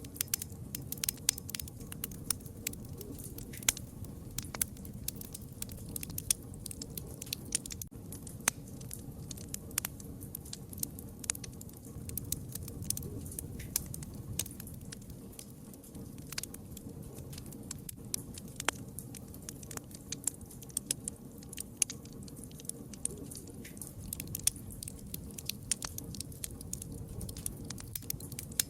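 Campfire crackling: irregular sharp pops and snaps, several a second, over a steady low rumble of the burning wood.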